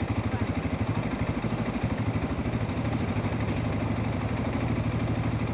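CFMOTO ATV engine running steadily at idle or low speed, with an even, rapid pulse.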